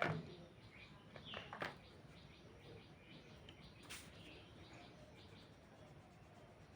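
Faint background bird chirping, with a few sharp clicks: one at the start, one just under two seconds in and one about four seconds in.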